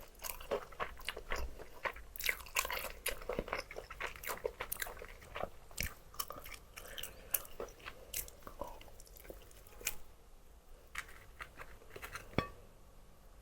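Close-miked chewing of crispy fried chicken, the batter crackling in dense crunches, then thinning to a few sharp crunches near the end.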